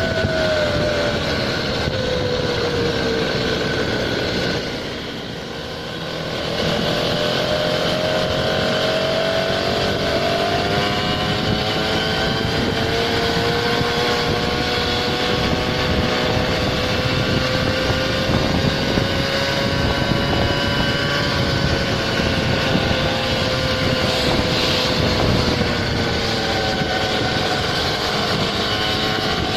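Small engine of a motorised scooter running under way, over a steady rush of noise. The engine note falls over the first few seconds and briefly quietens, then climbs back and holds fairly steady, easing slightly near the end.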